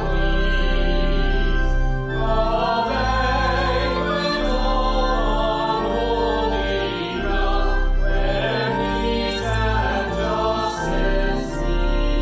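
Slow hymn music: voices singing held notes over sustained chords with deep bass, the chords changing about every two seconds.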